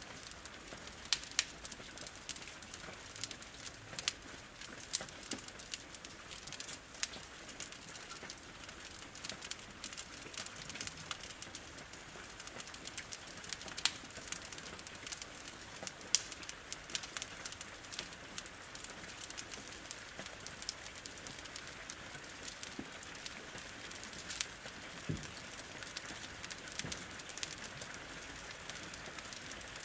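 Wood fire crackling, with frequent irregular sharp pops, over a steady hiss of rain against a window.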